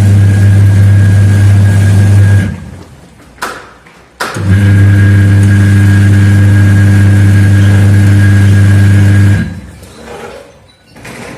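Washing machine wash motor and gearbox running with a steady hum. It cuts out about two and a half seconds in, and after a sharp click starts again just past four seconds. It runs until it stops again near the end, in the run-and-pause pattern of a wash cycle.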